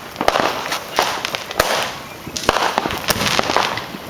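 Fireworks going off all around: a quick, irregular string of sharp bangs with crackling between them.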